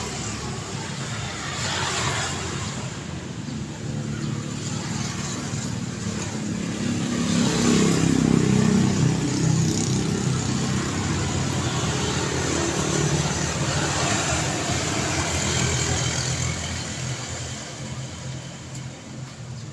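Road traffic passing by: a steady wash of tyre and engine noise, with several vehicles going past in turn. The loudest pass, about eight seconds in, brings a heavy low engine rumble before the noise eases off toward the end.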